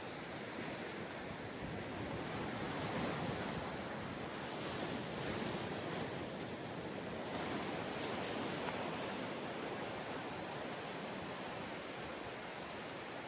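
Ocean waves breaking and washing up on a sandy beach, a steady rushing surf that swells gently every few seconds.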